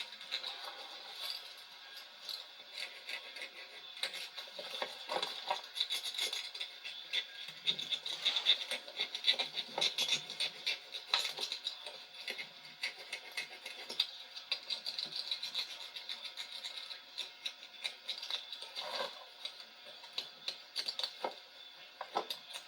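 Irregular scratching, rubbing and small clicks as a glued rubber boot patch is pressed and rubbed down by hand onto a tractor tire.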